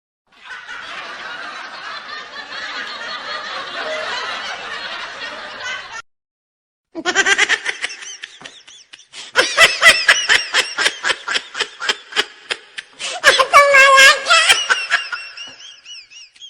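Laughter sound effects. For about six seconds many people laugh together. After a second's gap, one person breaks into a loud laugh of quick, rhythmic ha-ha pulses, with a drawn-out high-pitched squeal near the end.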